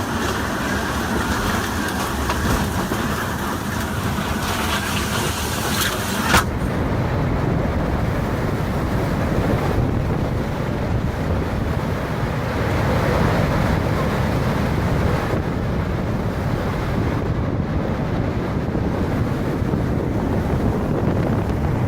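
Storm wind blowing hard against the microphone. A rushing high hiss ends in a sharp click about six seconds in, and a deeper wind rumble carries on after it.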